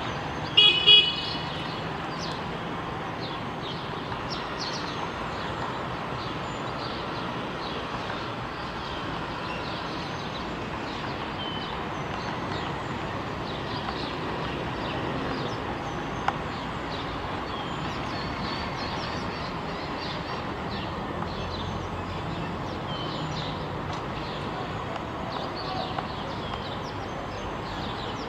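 Hispaniolan woodpecker giving a loud, harsh pitched call in two quick bursts about half a second in. Steady background noise follows, scattered with many faint short high chirps, and a single sharp click near the middle.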